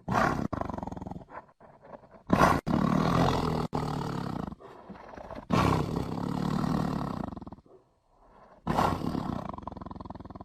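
Bengal tiger roaring: four long, rough roars of about two seconds each, separated by short pauses.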